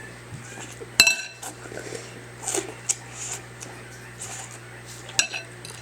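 Cutlery clinking against a dinner plate or bowl a few times as a child eats noodles, the sharpest clink about a second in.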